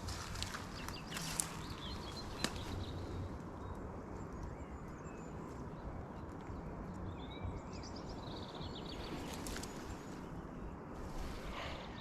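Small birds chirping faintly over a steady low outdoor rumble, with a few footsteps in the first few seconds.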